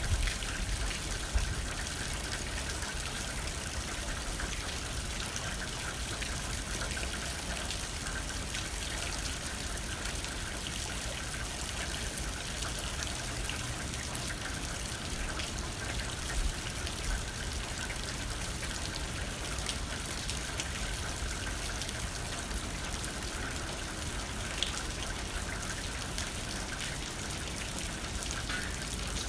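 Steady rain hitting a window pane, with a low rumble of light wind and a few louder single drops now and then.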